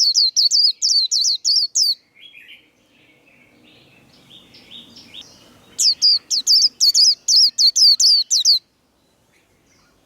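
A white-eye (vành khuyên) singing its rapid 'líu' song: fast runs of sharp, high, falling notes, about six a second. One run ends about two seconds in and a second runs from about six to eight and a half seconds, with a softer twitter between them.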